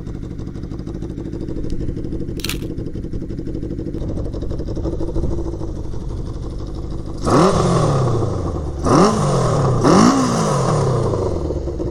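A 1981 Honda CB750's air-cooled inline-four idles steadily, then is revved three times in quick succession, each rev climbing sharply and falling back to idle. The owner suspects the engine isn't firing evenly on all cylinders and needs its carburetors cleaned.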